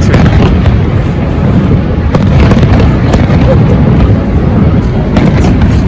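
Loud, steady rumbling roar of Niagara's American Falls, with a crackling texture and no separate bangs.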